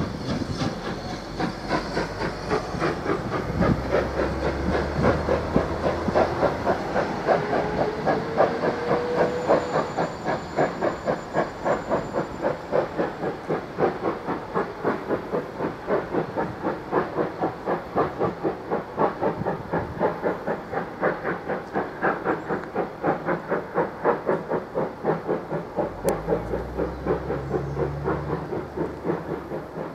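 Train running past with a steady rhythmic beat, about four a second, and a brief rising tone a few seconds in.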